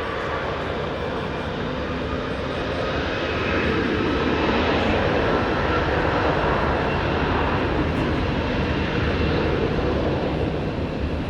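Rolls-Royce Trent 700 turbofans of an Airbus A330-300 at takeoff power: a dense jet roar that grows louder over the first few seconds and then holds, with a faint engine whine over it.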